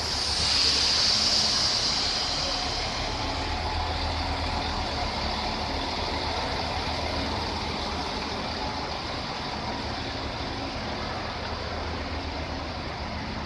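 Koleje Dolnośląskie passenger train pulling slowly into the station and coming to a stop, with a loud high hiss over the first two seconds and a steady low hum from its running gear and motors after that.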